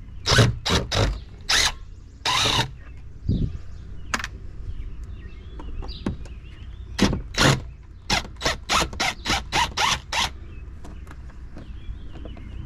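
Dismantling a dishwasher: a series of short, sharp metal scrapes and squeaks from parts being worked loose. They come in a quick run of about three a second near the end.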